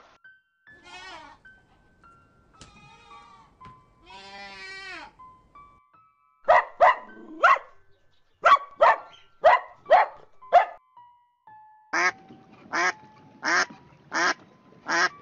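Soft background music under animal calls. A dog barks about nine short barks in quick runs, then a duck quacks five times in an even series near the end; a few fainter calls come first.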